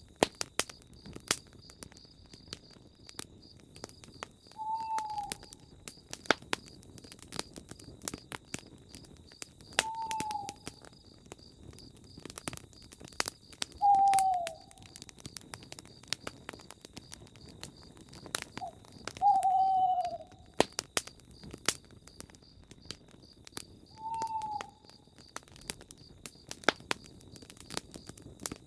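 Campfire crackling with scattered sharp pops, while an owl gives a short single hoot about every five seconds, five times, each call dipping slightly in pitch.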